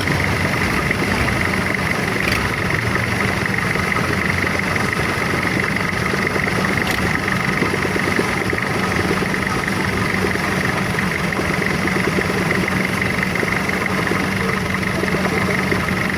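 A boat's engine running steadily at a constant pitch, with no change in speed.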